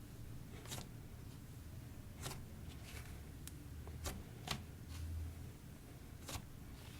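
Soft slime being pressed and worked by hand on a surface, giving faint, irregular clicks and small pops about every half second to second.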